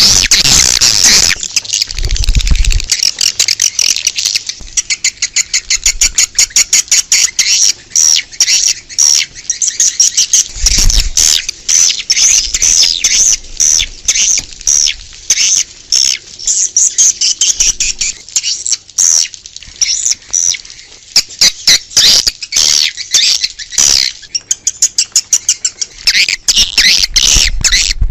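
Swiftlets twittering in a dense, rapid run of high chirps and clicks. It is a recorded outdoor swiftlet call, played to lure swiftlets to a nesting house.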